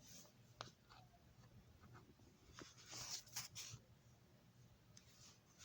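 Near silence: faint room tone with a few faint light clicks and scratchy rustles, about half a second in and again around three seconds in.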